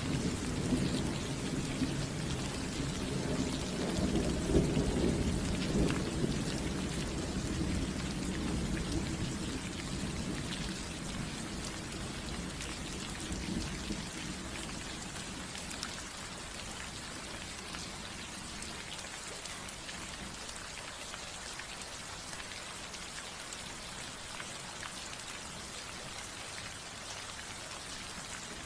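Steady rain falling on a roof, with a low rumble of thunder through the first half that dies away about halfway through, leaving only the rain.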